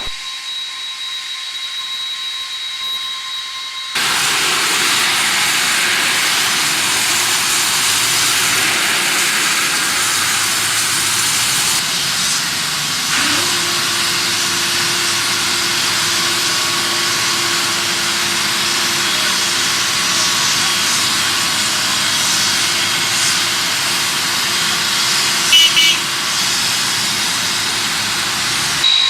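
Jet aircraft engine noise, steady and loud, cutting in suddenly about four seconds in after a quieter hiss with faint steady tones; a steady hum joins about halfway through.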